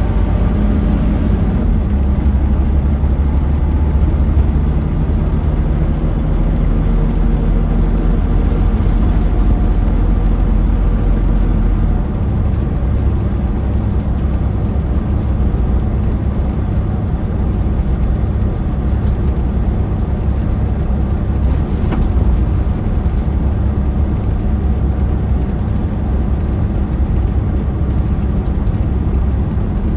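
Scania L94UB route bus heard from on board while under way: its Scania DC9 five-cylinder diesel runs with a steady low rumble and road noise. The rumble eases about twelve seconds in.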